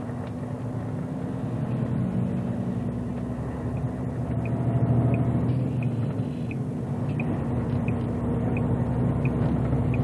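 Volvo truck's diesel engine running steadily under load, swelling a little in the middle. From about four seconds in, a faint regular tick comes about every 0.7 s.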